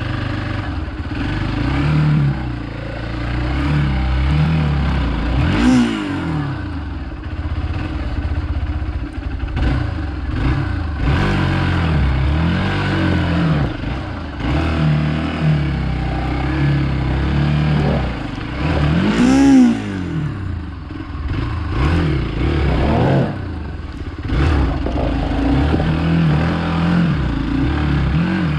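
Hero Xpulse 200's single-cylinder engine running and being revved up and down over and over, with two sharp rev peaks, about six seconds in and about nineteen seconds in.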